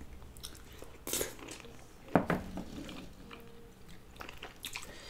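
Close-mic chewing and mouth sounds of people eating rice and curry, with a few short sharp clicks and smacks, the loudest about one and two seconds in.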